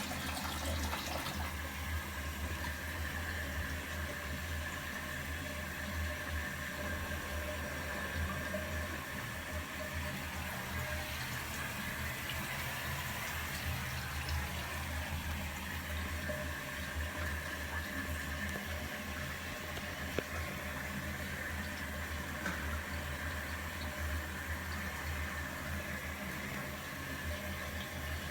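Water running steadily in a drain line, an even rushing sound with a low hum underneath.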